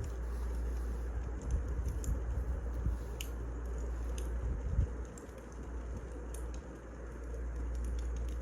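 Wood fire crackling: scattered sharp pops and clicks at irregular times over a steady low rumble and hiss.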